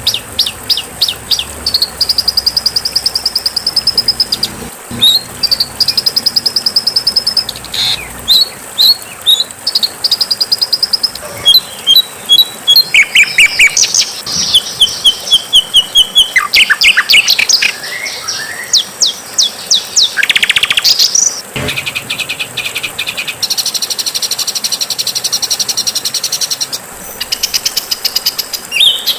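Songbird song: fast series of sharp, high chips, buzzy trills and quick sweeping notes, the phrase changing every few seconds.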